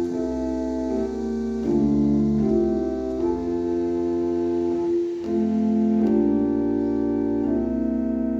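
Slow, sustained chords played on an organ-voiced keyboard, with brief gaps between chord changes that the player hears as choppy, not smoothly connected.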